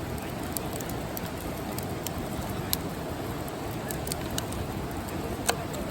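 Wood campfire crackling: a steady hiss with scattered sharp pops.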